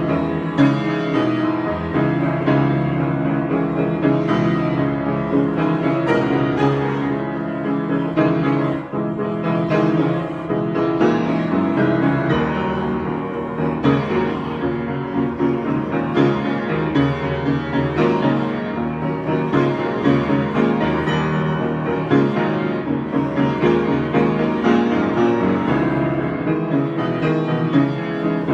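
Piano being played in an improvised solo passage, with dense overlapping notes sounding without a break.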